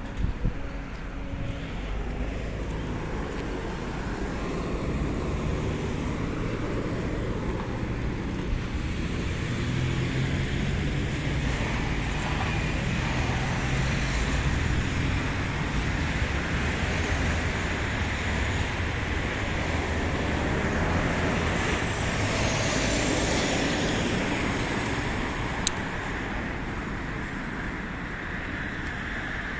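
Road traffic: a motor vehicle running steadily with tyre and engine noise, swelling through the middle, with a high whine gliding down a little past twenty seconds in and a sharp click near the end.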